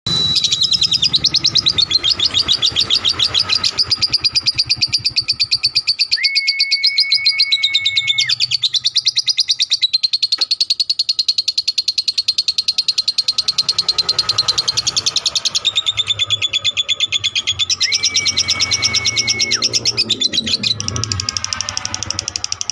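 Lovebird singing a long ngekek: a rapid, unbroken chattering trill of high notes that runs nearly twenty seconds with only brief changes in pitch. A steady high tone sounds twice under it, about six seconds in and again near the end.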